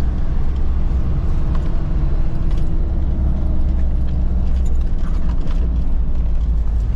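Vehicle driving along the road, its engine and tyre noise heard from inside the cabin as a steady low rumble.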